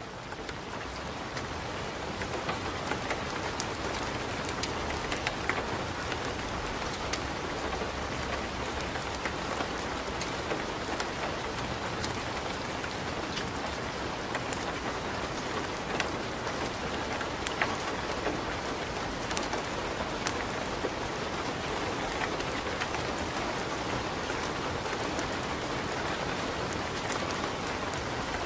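Steady rain, with sharp crackles and pops from a wood fire burning in a fireplace scattered through it.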